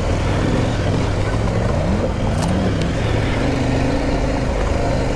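Adventure motorcycle engine running under load on a rough off-road lane, revving up about two seconds in. Two sharp clicks come shortly after.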